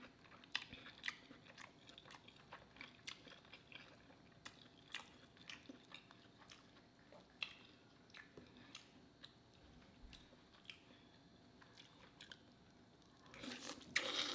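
Close-miked mouth sounds of a person chewing boiled lobster meat: faint, scattered wet clicks and smacks, then a louder bite and chewing about a second before the end.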